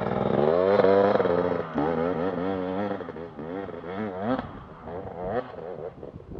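Dirt bike engine revving, its pitch climbing and falling repeatedly as the throttle is worked, growing fainter after about four seconds.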